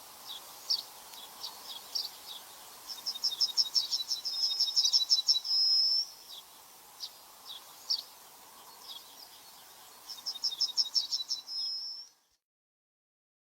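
A songbird singing: phrases of a rapid, high trill that end in a drawn-out note, with scattered single chirps between them. The sound cuts off abruptly near the end.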